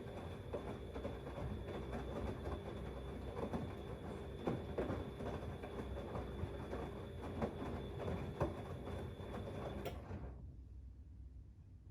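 Siemens Extraklasse XLS 140 A front-loading washing machine tumbling wet laundry in its drum, with irregular knocks and a steady motor whine. Drum and motor stop abruptly about ten seconds in as the drum pauses between turns.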